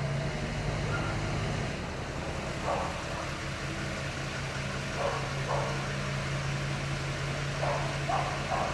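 Tractor engine idling steadily, with a few short faint sounds like distant voices or barks over it.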